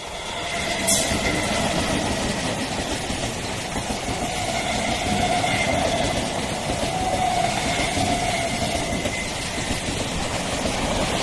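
Electric multiple-unit local train passing close by: a steady rumble of wheels on rail with a faint high whine over it. The sound builds over the first second, with a sharp click about a second in.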